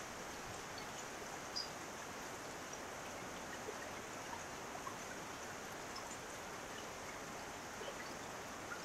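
Steady heavy rain, with water pouring off the eaves of a tiled roof and scattered single drips ticking through the hiss.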